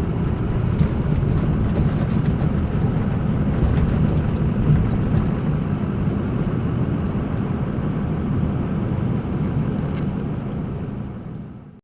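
Steady road and engine noise heard from inside a moving truck camper's cab, with a few faint clicks; it fades out just before the end.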